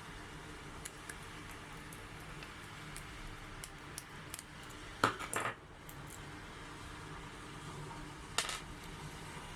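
Small hard parts or tools being handled on a work surface: scattered light clicks, a clatter of two knocks about five seconds in, and another knock near the end.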